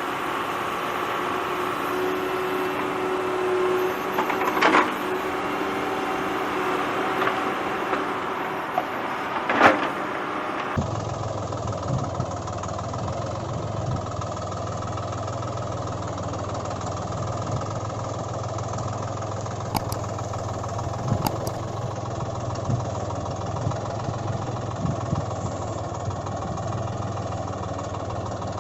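Steady engine-like running sound with two sharp clicks in the first ten seconds. About eleven seconds in it changes abruptly to a lower, steady idling hum.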